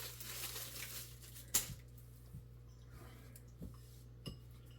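Soft rustling for about a second and a half, then a sharp clink of a spoon or cutlery and a few fainter clicks of utensils against dishes during a meal.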